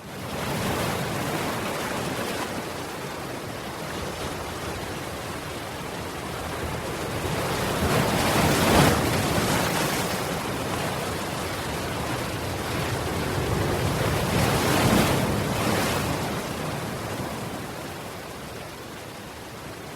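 Ocean waves washing on a shore, a continuous surf hiss that swells and ebbs, with two louder waves breaking about nine and fifteen seconds in.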